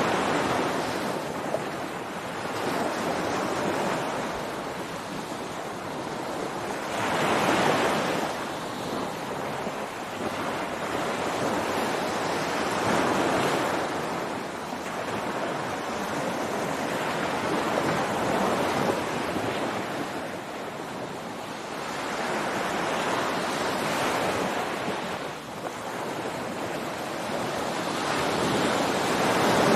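Ocean surf breaking and washing up a beach, each wave swelling and fading every five or six seconds.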